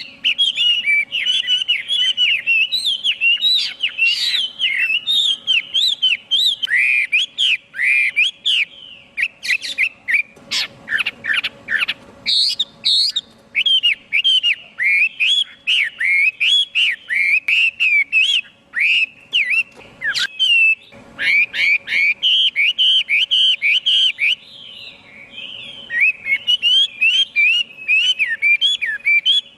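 Chinese hwamei singing a long, rapid run of loud, varied whistled notes that slide up and down, with a short lull about three quarters of the way through.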